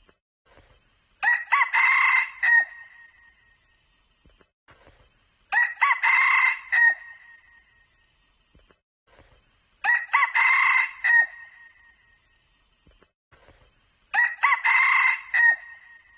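Red junglefowl cock crowing four times, evenly spaced about four seconds apart, each crow short and alike.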